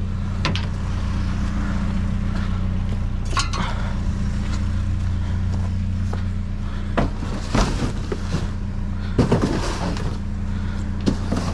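A vehicle engine idling steadily, with scattered clatters and knocks of scrap wire and metal being handled.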